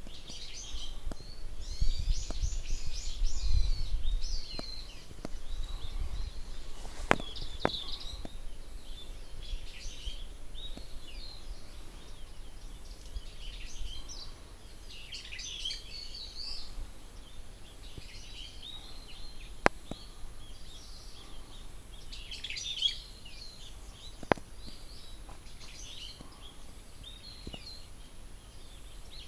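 Wild birds singing and calling in short chirping phrases, over and over, with a low rumble in the first few seconds and a few sharp clicks.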